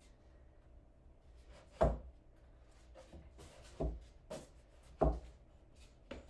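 Five sharp knocks of wood being handled and set down, spread about a second apart, the loudest about two seconds in and again near five seconds in.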